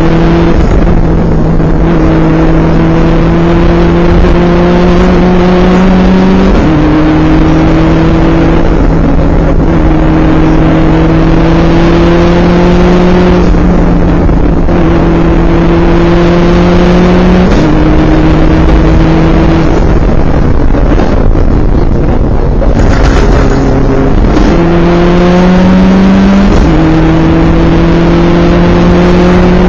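Turbocharged Subaru WRX rally car's flat-four engine at full pull, heard from inside the cabin: the engine note climbs steadily through each gear and drops sharply at each gear change, several times. Steady road and tyre noise runs under it.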